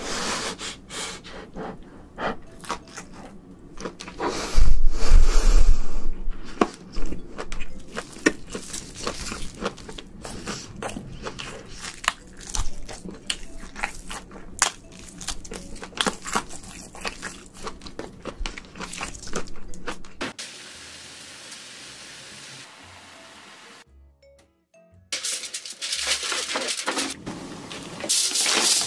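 Close-miked eating of shrimp: dense crunching, cracking and clicking of shells and chewing, with a heavy thump about five seconds in. Near the end there is a short hush, then a louder noisy stretch.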